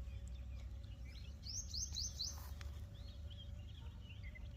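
Small birds chirping and calling, with a quick run of four sharp high notes about a second and a half in, over a steady low rumble.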